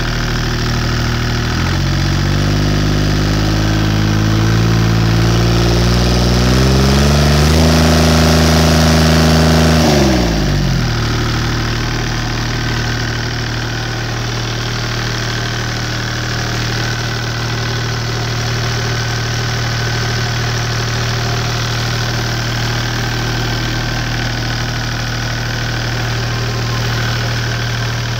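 Deutz 2009L03 three-cylinder direct-injection diesel revved up in several steps, held at high speed for a couple of seconds, then dropped back quickly to a steady idle about ten seconds in. It runs pretty good.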